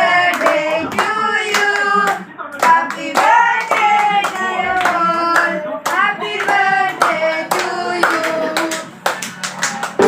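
Voices singing together with hands clapping along in a steady rhythm, several claps a second.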